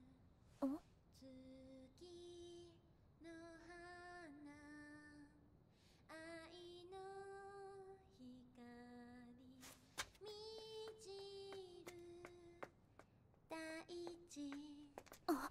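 A high female or child voice singing softly and slowly, unaccompanied, in held notes that glide from one to the next, in short phrases with pauses between them. A couple of brief sharp sounds cut in, about a second in and near the end.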